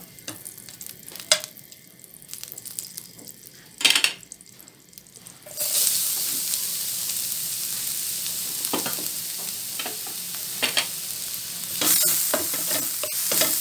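A spoon scrapes and clicks a few times in a nonstick frying pan of melting desi ghee. About five and a half seconds in, grated carrot hits the hot ghee and a steady, loud sizzle starts, with the spatula clicking in the pan as the carrot is stirred. The carrot is being sautéed to take off its rawness.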